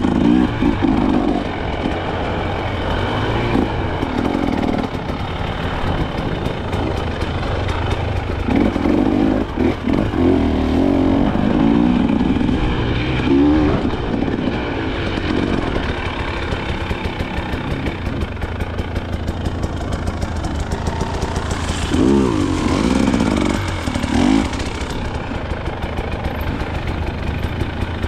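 Off-road motorcycle engine being ridden, revving up in bursts several times and easing back to lower revs in between, settling to a steadier lower note near the end.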